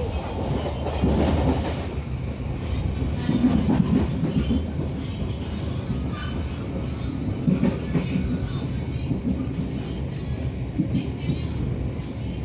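Passenger train coach running along the rails, heard from inside: a steady rumble of the wheels with irregular clicks and knocks over the track.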